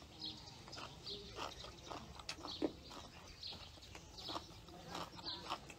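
Close-up chewing of food: a run of faint, irregular mouth clicks and smacks, a few each second.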